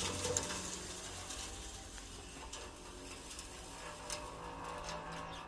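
Faint steady machine hum with scattered light clicks and ticks.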